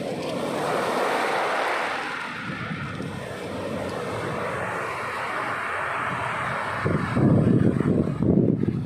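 Sea surf, a steady roar of breaking waves. About seven seconds in, a gust of wind buffets the microphone with an uneven low rumble.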